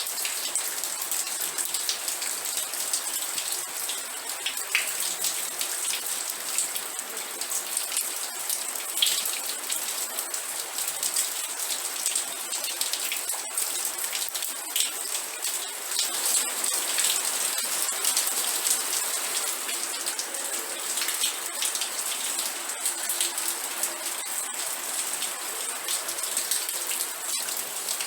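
Steady rain, dense pattering of drops hitting a surface, with many individual drop ticks over a continuous hiss.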